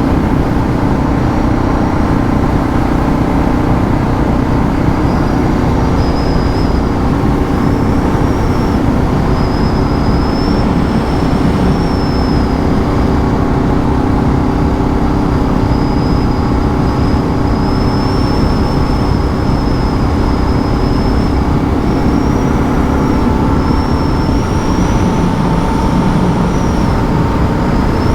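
Suzuki DR650's single-cylinder engine running steadily at cruising speed, mixed with wind and road noise while riding.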